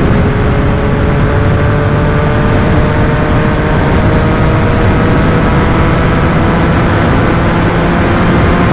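Yamaha MT-09's inline-three engine through an Akrapovic carbon full exhaust, held under throttle as the bike accelerates, its pitch climbing slowly and steadily.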